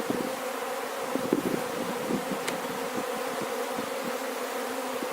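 Honeybees buzzing around an opened hive: a steady drone, with a few faint knocks.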